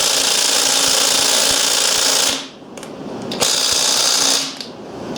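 Impact wrench hammering on a stuck spark plug in two long bursts with a short pause between, a third starting at the end; the plug does not come loose.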